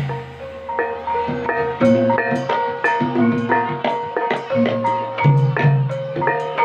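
Javanese gamelan music accompanying an ebeg horse dance: bronze metallophones ringing with quick, steady struck notes over low pitched drum beats.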